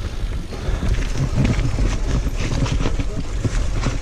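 Mountain bike descending a rough trail: tyres rumbling over the ground with rapid, irregular clatters and knocks from the bike.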